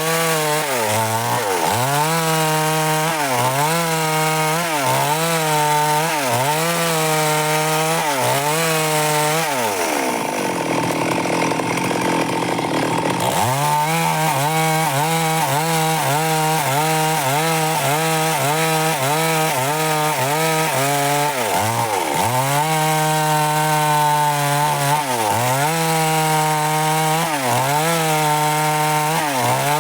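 Stihl MS 382 two-stroke chainsaw cutting dry wood, its engine note dipping and recovering about once a second as the chain bites. Near the middle, for a few seconds, the steady note gives way to a rougher, noisier sound before the dipping pattern returns.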